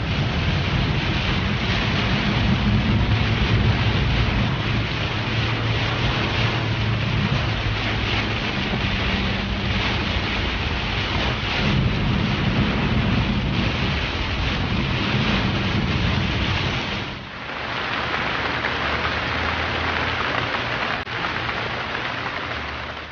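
Heavy rain beating on a Ford F-250 pickup as it drives, heard from inside the cab, with the low rumble of the truck and its tyres on the wet road underneath. About 17 seconds in, the rumble drops away, leaving a brighter, steady rain hiss.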